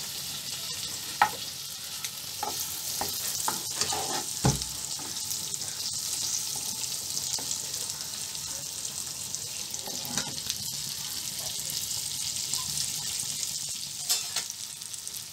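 Halved boiled eggs frying in oil and masala paste in a nonstick pan: a steady high sizzle, with scattered clicks and scrapes of a steel spatula and spoon turning them.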